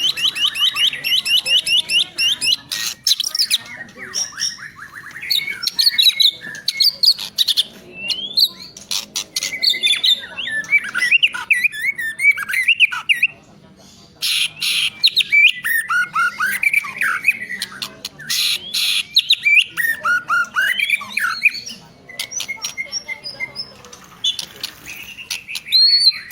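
White-rumped shama (murai batu) singing a loud, varied song of rapid trills of repeated notes, rising and falling whistled phrases and sharp clicking notes. This is the excited song of a bird worked up to fight a rival.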